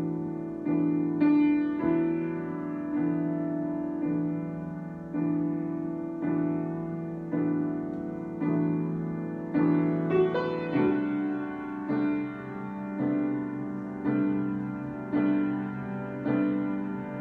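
Solo piano improvisation: slow chords struck about once a second and left to ring and fade. A few quicker notes come just before the middle, after which the harmony moves to a lower bass chord.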